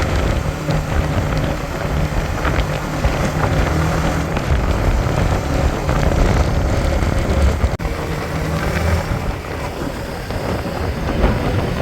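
Motorcycle engine running steadily while riding, under a heavy rush of wind noise on the microphone.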